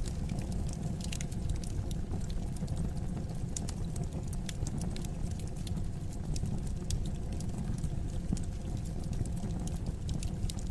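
Wood fire crackling: many small, sharp pops at irregular moments over a steady low rumble of burning.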